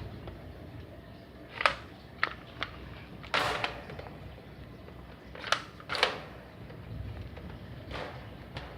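Scattered sharp clicks and knocks, about eight of them at uneven intervals, one a little longer about three and a half seconds in, over a steady low hiss.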